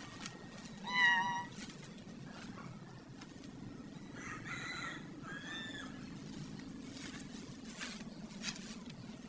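A few short animal calls, the loudest about a second in, with fainter ones in the middle, over a low steady hum.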